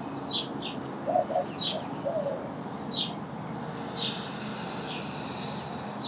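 Wild birds calling: scattered short high chirps, a few low coos between about one and two seconds in, and a thin steady high note over the last two seconds.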